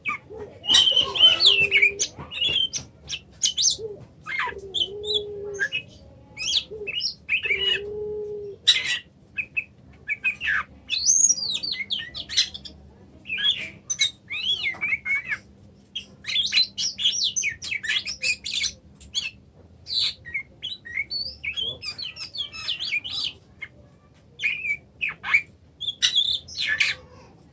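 Oriental magpie-robin (kacer) singing a long, varied run of quick chirps, whistles and harsh notes, with a few short low tones in the first nine seconds.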